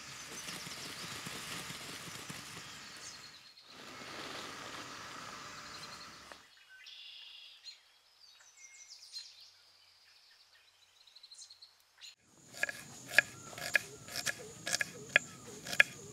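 Knife chopping onion on a wooden cutting board: a quick run of sharp knocks starting about twelve seconds in, the loudest sound here. Before it, a steady outdoor hiss, then a quiet stretch with faint bird chirps.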